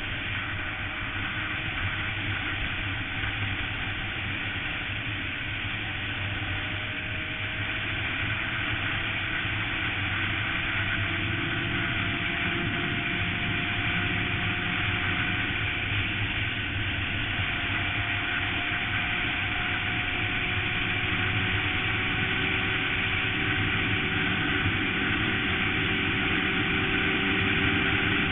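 Suzuki GSX-R sportbike engine running at highway speed under heavy wind and road noise. Its pitch rises slowly and the sound grows a little louder as the bike gradually speeds up.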